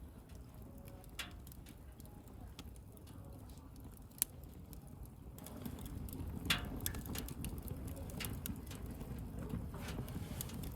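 Wood bonfire crackling, with scattered pops and one sharp snap about four seconds in. From about halfway through, the fire gets louder and busier, with more crackles over a low rushing sound.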